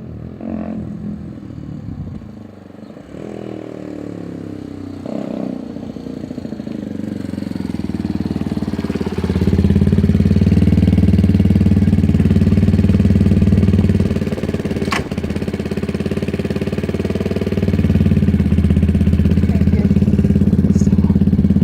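Benelli TNT 125 single-cylinder four-stroke engine through a decatted Werx straight-pipe exhaust. Its pitch glides up and down over the first few seconds, then it grows louder and runs steadily close by, easing briefly once before picking up again, with one sharp click along the way.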